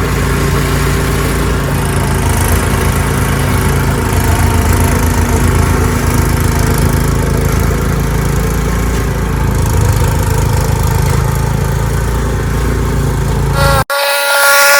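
Ariens 624E snowblower engine running steadily with an even low throb. Near the end it breaks off abruptly and a higher-pitched machine whine takes over.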